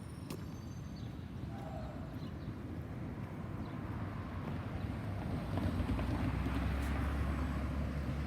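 Outdoor traffic noise with some wind on the microphone. A passing vehicle's low rumble swells about five and a half seconds in.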